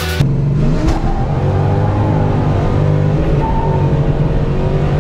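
A muscle car engine runs at a steady idle. The revs rise briefly just after the start, then settle.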